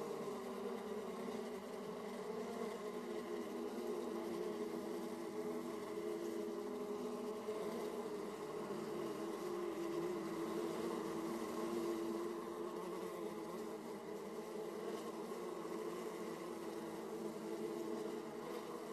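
Honey bees buzzing at a hive entrance: a steady, dense hum of many bees flying in and out, with the drones of individual bees passing close rising and falling within it.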